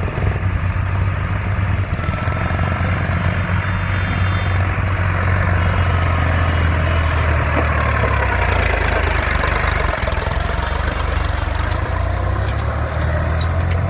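Tractor diesel engine running steadily with a deep hum, pulling a loaded trolley, growing somewhat louder in the middle.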